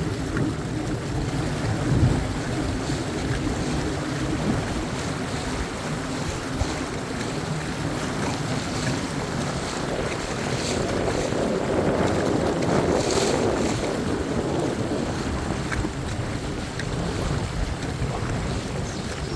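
Motorboat engine running while underway, with water rushing past the hull and wind buffeting the microphone.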